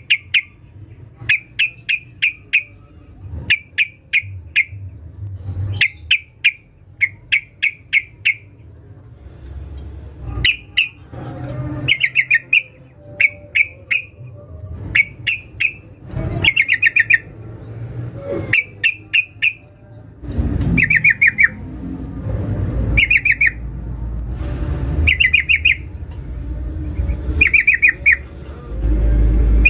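Yellow-vented bulbul (trucukan) calling in quick bursts of rapid chattering notes, a handful of notes per burst, repeated every second or two. The recording is used as a lure, a female calling to draw in males. A low rumbling background noise builds up in the second half.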